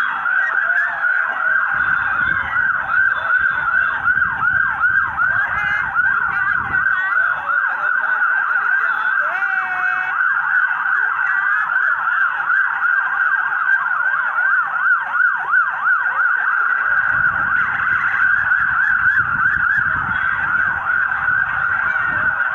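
Several vehicle sirens yelping at once, overlapping fast up-and-down sweeps about four a second. A low rumble comes and goes twice underneath.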